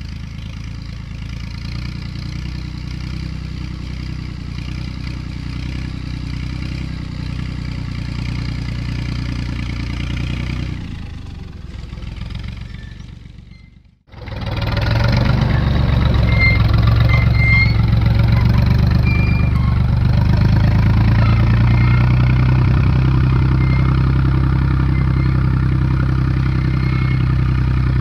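Tractor engine running steadily while pulling a field roller. About halfway through it fades away, then comes back louder and closer, with a stronger low hum and a few faint short squeaks.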